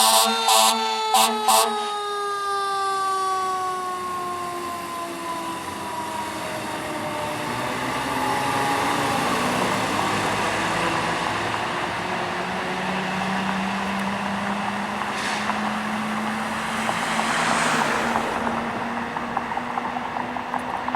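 Fire engine air horn blasting four times in quick succession over its siren, then the siren's pitch slides slowly down and fades over several seconds, leaving the steady rumble of the truck and traffic.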